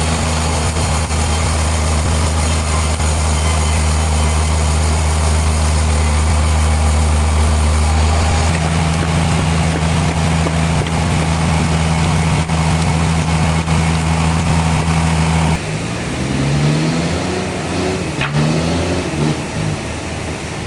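Heavy machinery running with a steady low hum; about 15 seconds in it changes abruptly to a motor whose pitch rises and falls repeatedly, as if speeding up and slowing under changing load.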